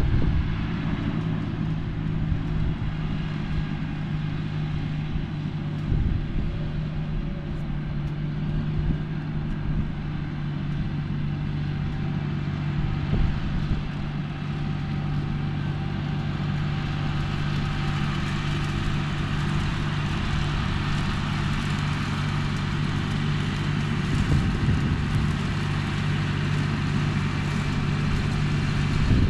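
John Deere 5045E tractor's three-cylinder diesel engine running steadily at one even pitch while pulling an MX8 rotary cutter through a field.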